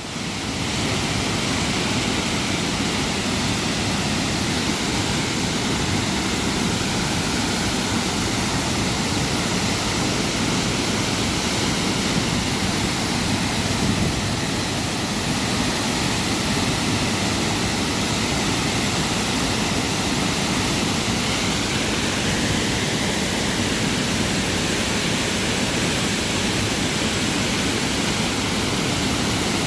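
Steady roar of a large, powerful waterfall crashing down, heard from close by.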